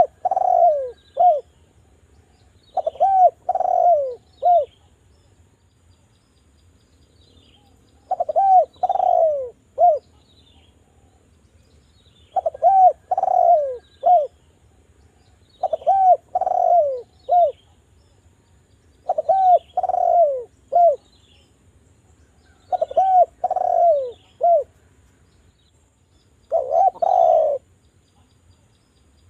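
Derkuku (island collared dove) cooing: a repeated phrase of three or four short coos, each falling in pitch, about every three to four seconds. Faint high chirps sound alongside.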